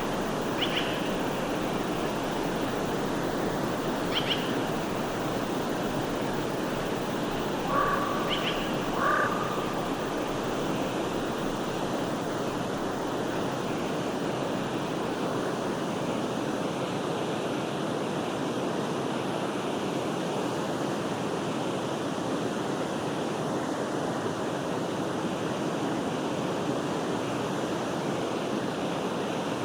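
Steady rushing and babbling of a forest stream, with a few short bird chirps in the first ten seconds and then only the water.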